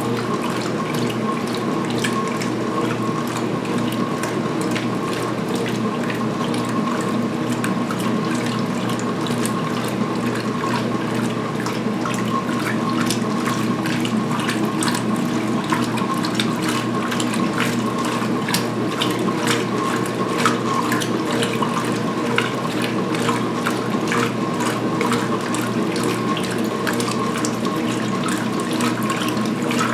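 2016 Speed Queen washing machine agitating at high speed in the rinse: a steady motor and drive hum with water and towels sloshing and splashing in the tub.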